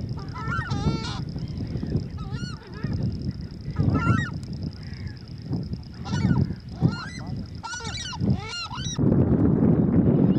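Marsh birds calling: a series of short calls that bend in pitch, a second or two apart at first and coming in quicker succession in the second half.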